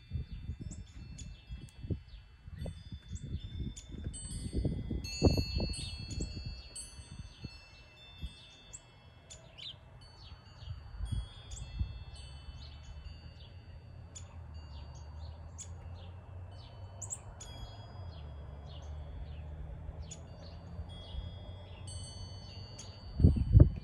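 Wind chimes ringing, many tones struck again and again and left to ring over one another, with short high bird chirps scattered through. Uneven low rumbling underneath swells a few seconds in and again near the end.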